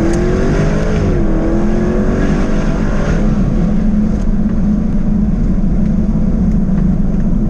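2024 Jaguar F-Type's 5.0-litre supercharged V8 pulling in Sport mode. The engine note dips about a second in, as at an upshift, and climbs again until about three seconds in. It then settles into a steady drone.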